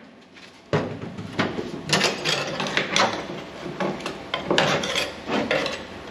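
Hand paint scraper scraping old silicone sealer off the truck cab's sheet metal, in a string of short, uneven strokes that start about a second in.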